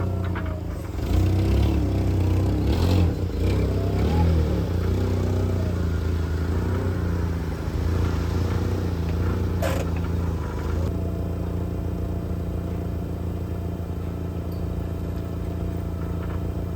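A forklift's engine running, its pitch rising and falling as it works, with clattering and scraping and one sharp knock about ten seconds in. Near eleven seconds the sound changes abruptly to a steadier engine hum with a high steady tone.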